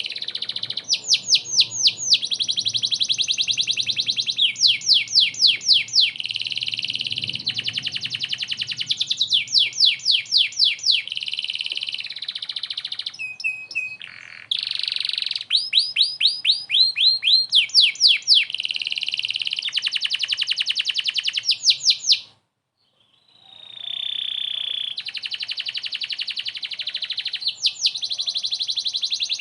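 Domestic canary in full song, long runs of fast repeated notes and rolling trills, stopping for about a second roughly three-quarters of the way through before starting again.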